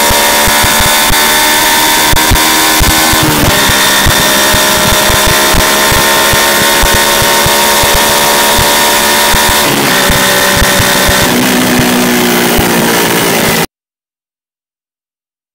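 Yamaha YZF-R125's single-cylinder 125 cc engine under way, its note climbing slowly with the revs, with two brief dips in pitch about three and ten seconds in. Picked up by a microphone under the bike, with heavy wind buffeting. The sound cuts off abruptly near the end.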